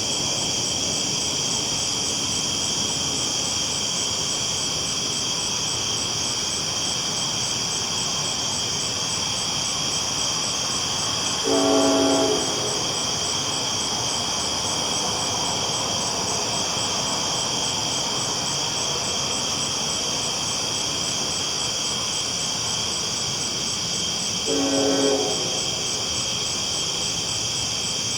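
Train rolling along the tracks under a steady high-pitched drone, its horn sounding twice in short blasts of about a second, some thirteen seconds apart.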